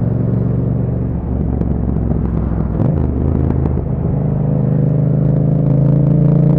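2021 Yamaha MT-07's 689 cc parallel-twin engine running at low revs through an Akrapovič exhaust with a dB killer fitted. The note changes about three seconds in, and the engine grows louder over the last few seconds.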